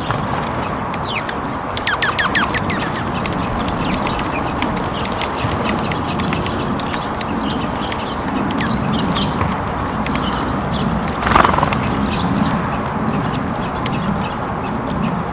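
Small birds chirping in quick, high notes over a steady outdoor hiss, with lower calls underneath and one louder call about eleven seconds in.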